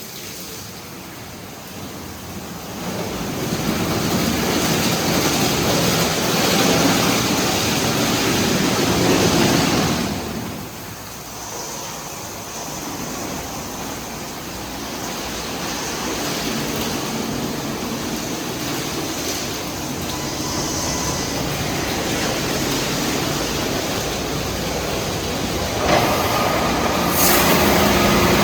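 PDQ ProTouch Tandem touchless car wash running its cycle: a steady rushing of high-pressure spray on the car, swelling a few seconds in, dropping away about ten seconds in, then building again. Near the end a steadier machine hum comes in.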